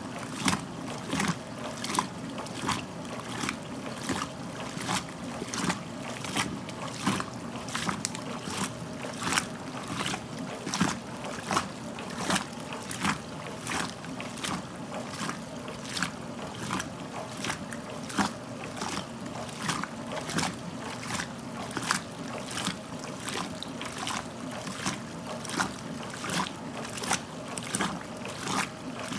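1969 Westinghouse washing machine running mid-cycle: water and clothes slosh and splash in a steady rhythm over the even hum of the machine's motor.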